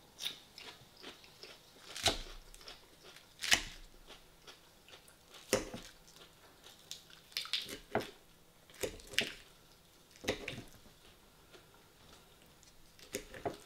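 A person chewing and biting crisp salad close to the microphone, with a string of sharp crunches and clicks every second or two.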